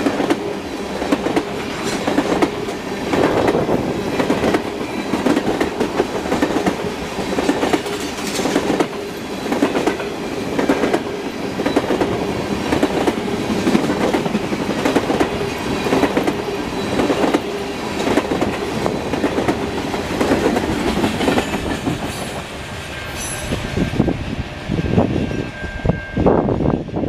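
Tank cars of a freight train rolling past, their steel wheels clicking in a steady rhythm over rail joints. A faint high wheel squeal joins near the end.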